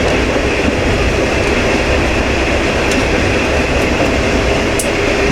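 KiHa 20 diesel railcar running along the line, heard from inside the cab: a steady rumble of the diesel engine and the wheels on the rails. A few sharp clicks come through, two of them about three seconds in and near the end.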